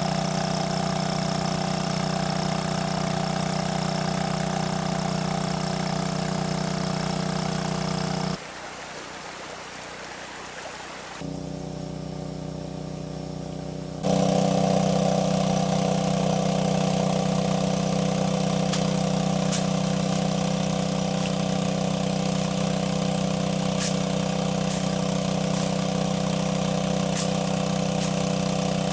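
A small engine running steadily at an even pitch. It drops away sharply for a few seconds about eight seconds in, then comes back slightly louder.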